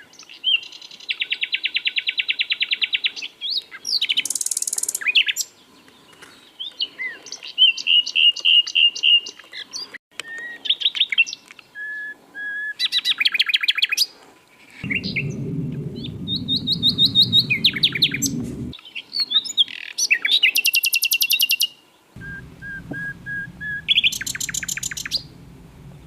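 Common nightingale singing: a run of varied phrases with short pauses between them, mixing rapid repeated notes, fast trills and clear whistles. A low rumbling noise sets in abruptly twice beneath the song, first for a few seconds in the middle and again near the end.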